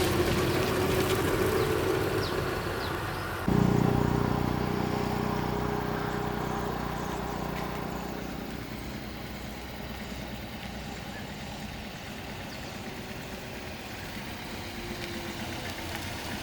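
An engine running steadily, with an abrupt jump in loudness about three and a half seconds in, then gradually fading.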